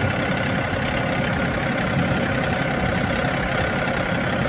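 John Deere diesel tractor engine running steadily as the tractor drives, with an even, unbroken drone.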